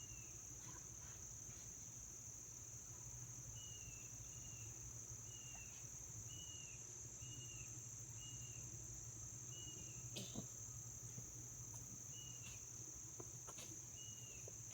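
Faint, steady high-pitched drone of crickets or similar insects. Over it, a short falling chirp repeats about once a second, and there is a sharp click about ten seconds in.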